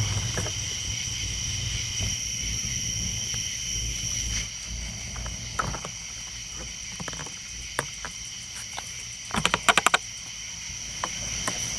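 Crickets chirring steadily at night, a high continuous insect chorus, with a quick run of sharp clicks and knocks about nine and a half seconds in.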